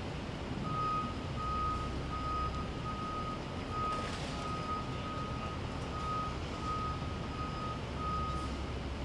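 A vehicle's reversing alarm beeps steadily, about eleven single-pitch beeps at a little over one a second, over a low rumble.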